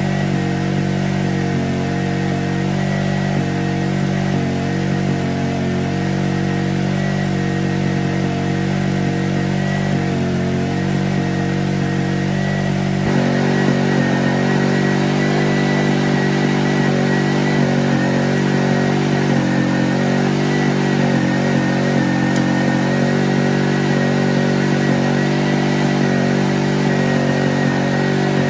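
Restored Honda generator's small engine running steadily, showing that it works again. Its tone changes slightly about halfway through, then settles.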